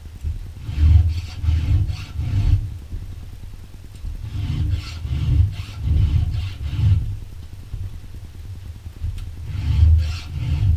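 Hand file rasping across chainsaw chain teeth in three sets of a few strokes each, one set per tooth, with short pauses as the file moves to the next tooth; each stroke gives a scratchy rasp with a dull thud from the saw.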